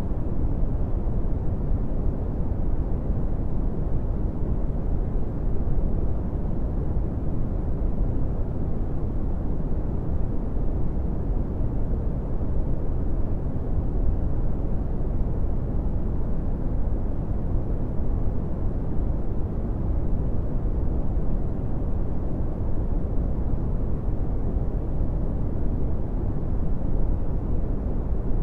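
Brown noise: a steady, deep rumbling hiss with its weight in the low end and little treble, unchanging throughout.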